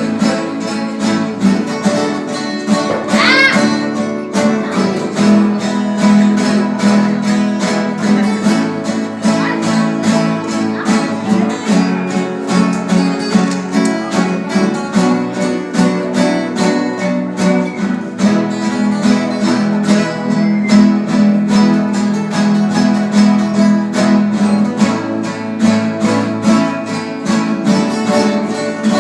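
A rondalla, an ensemble of acoustic guitars, strumming a hymn in a steady rhythm.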